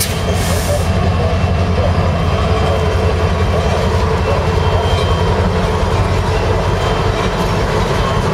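Norfolk Southern diesel-electric locomotive passing close by with a steady low engine rumble, followed by freight cars of a hot metal train rolling over the rails.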